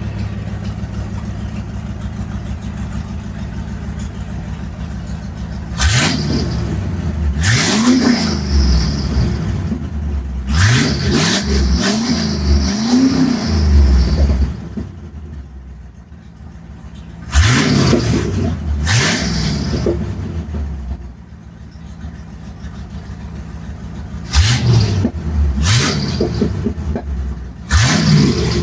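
Ford Ranger engine running through a new open exhaust (headers into a 2.5-inch collector, then straight out a 3-inch pipe). It idles steadily for several seconds, then is revved in repeated sharp throttle blips, several in quick succession, dropping back to idle between bursts.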